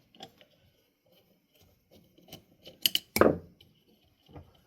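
Scattered metallic clicks and clinks of tools and hardware as the downrod yoke is taken off a ceiling fan's motor housing, with one louder clunk about three seconds in.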